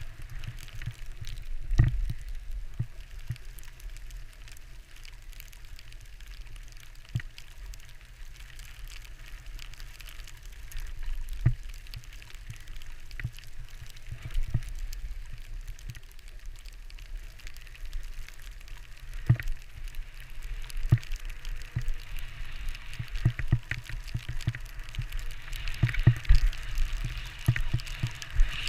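Skis sliding and scraping over snow while the camera skier follows another skier, with wind rumble on the microphone and scattered knocks. The scraping hiss grows louder near the end.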